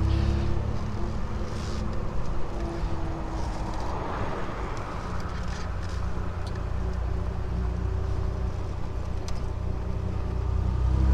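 Triumph Vitesse 2 Litre's straight-six engine running as the car drives slowly, its note falling and rising with the throttle over a steady low rumble.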